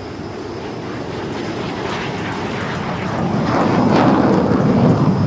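Three HAL/BAE Hawk Mk132 jet trainers taking off together, their turbofan engines at takeoff power. The jet noise builds and is loudest about three and a half seconds in.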